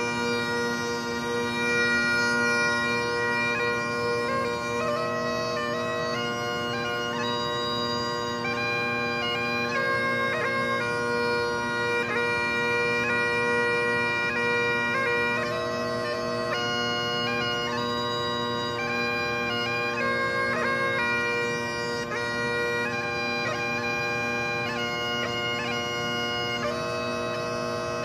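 Bagpipes playing a tune, the chanter's melody of held notes and quick grace notes sounding over steady, unbroken drones.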